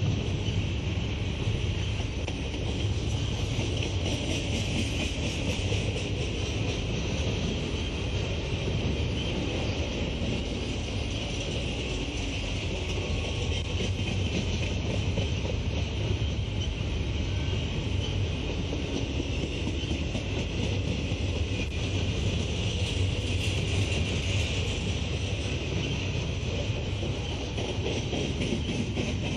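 Double-stack intermodal container cars of a freight train rolling past, giving steady wheel-on-rail noise.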